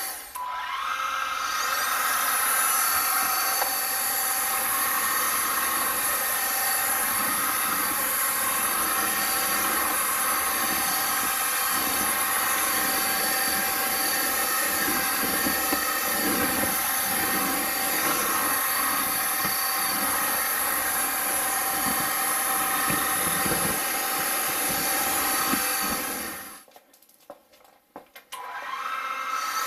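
BuTure VC70 cordless stick vacuum cleaner running with a steady high motor whine. It cuts out for about two seconds near the end and starts again, its pitch rising as the motor spins up.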